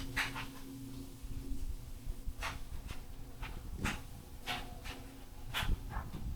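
Concord contractor-grade ceiling fan running on its high speed: a steady low motor hum, with a few soft brief rustling noises.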